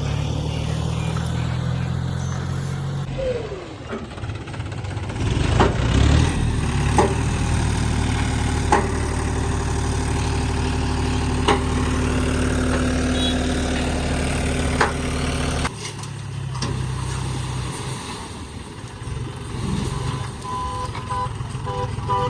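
Heavy diesel machinery engines running steadily, with several sharp knocks in the middle and the engine sound changing abruptly twice. Near the end come short repeated beeps.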